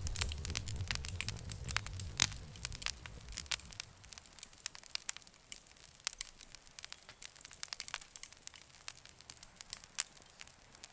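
Campfire wood burning and crackling, with frequent sharp pops and snaps. A low roar of the flames is heard for the first few seconds, then fades, leaving mostly crackles.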